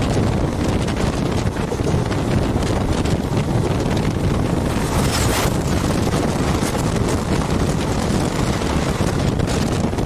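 Wind buffeting the microphone at the open door of a moving passenger train, over the steady rumble of the train running on the track. About five seconds in, a brief rush of noise as an oncoming train passes close by on the next track.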